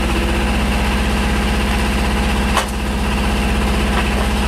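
Tractor engine running steadily, powering a hydraulic log-splitting wedge, with a single sharp crack about two and a half seconds in.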